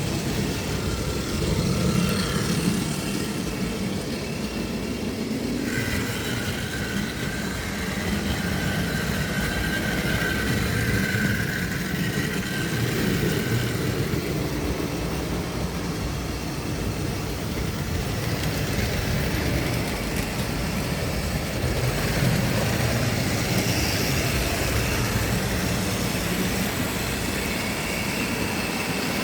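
Tri-ang model train running on the layout: a steady whirring and rattle from the electric motor and wheels on the track, with a faint whine that shifts in pitch now and then.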